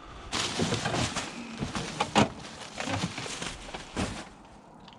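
Rustling and clattering of objects being handled and moved, with several sharp knocks, for about four seconds.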